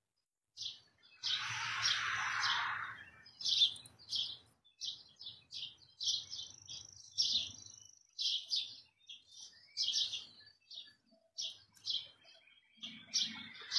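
Small birds chirping: a run of short, high chirps, several a second, with one longer steady high whistled note about six seconds in. A brief louder rustle of noise lasts about a second and a half, starting just over a second in.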